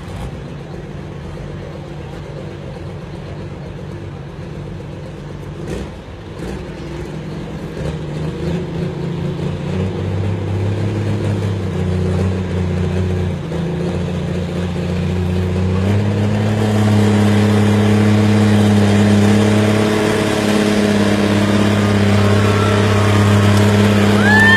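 2,500-horsepower pulling tractor's engine running hard under load on the pull, growing louder, its pitch stepping up twice.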